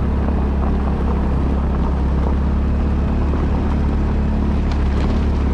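A vehicle engine running at a steady, even speed while travelling, with a deep constant hum and wind noise on the microphone.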